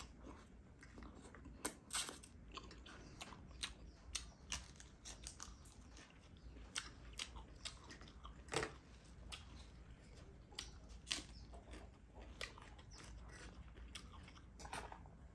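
Close-miked chewing of spicy chatpate and instant noodles, with irregular crisp crunches.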